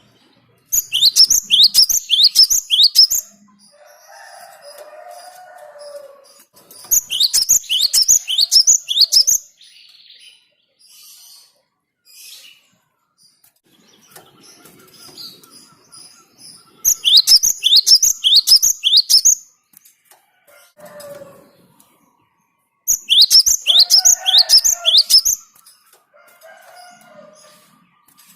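Cinereous tit (gelatik batu) calling in four loud bursts of rapid, high, sharp notes, each burst about two and a half seconds long at roughly three notes a second. Fainter, lower chirps fill the gaps between the bursts.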